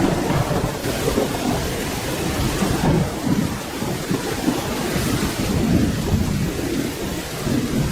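Rain falling steadily with thunder rumbling low and unevenly underneath.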